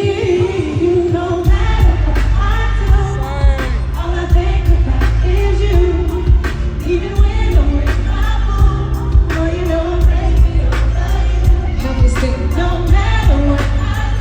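Live pop/R&B concert music: a woman singing a melody over a band with a steady drum beat, a heavy bass line coming in about a second and a half in.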